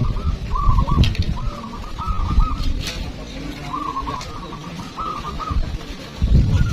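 Zebra doves (perkutut) cooing, a string of short trilled phrases repeated over and over, over a low rumbling noise.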